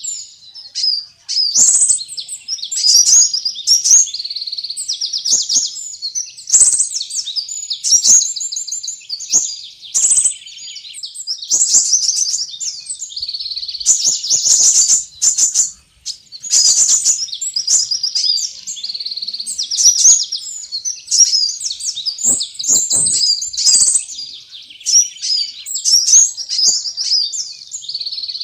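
Sunbirds twittering and chirping rapidly and without pause: dense, high-pitched trills and chips, a bird-lure call recording made to draw small birds in.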